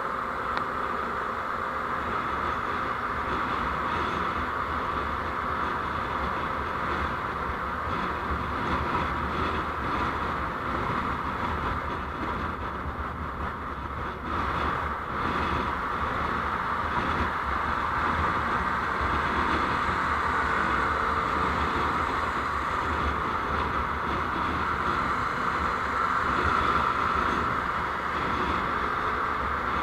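Steady running noise of a vehicle on the move, engine, tyre and wind noise as picked up by a dashcam microphone, with a constant low rumble and an even hiss.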